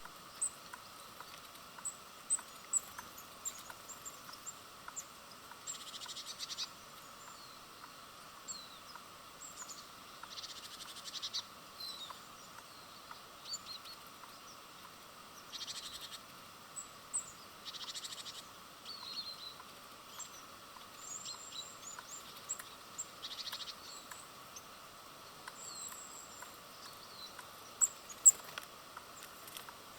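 Small birds at a feeder calling: many short high chirps and several trilled calls of about half a second to a second each, with a few sharp taps, over a steady faint background hum.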